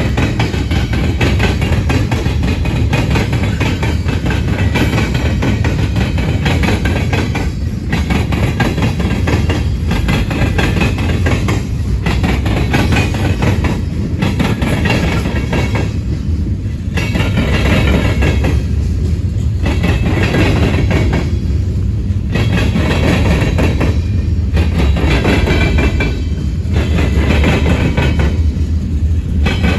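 Freight cars of a manifest train rolling past, with a steady heavy rumble and wheels clacking over the rail joints. The sound dips and swells every two seconds or so as car after car goes by.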